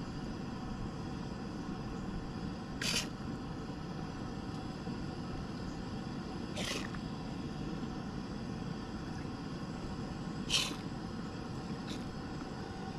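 Steady low rushing background noise, with three short, high, downward-sweeping chirps about four seconds apart.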